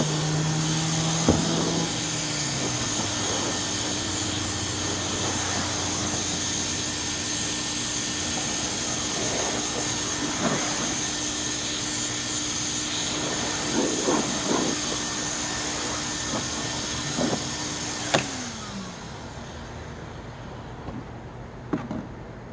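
Hoover bagless upright vacuum cleaners running, with a steady motor hum and whine and a few knocks. One motor winds down about two seconds in; the other winds down about eighteen seconds in, leaving it much quieter.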